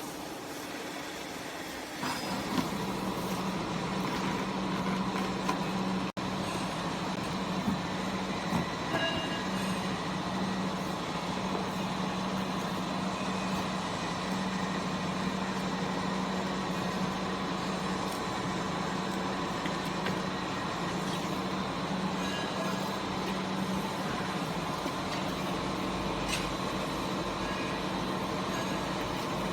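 A DG20 double-cylinder vertical cardboard baler's hydraulic power unit running with a steady hum, which grows louder about two seconds in, with a few light clicks.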